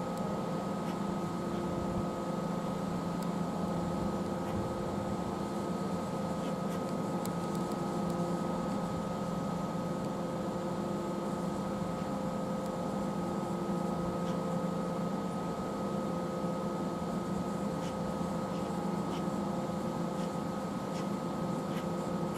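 Steady electrical hum made of several held tones, with a few faint clicks.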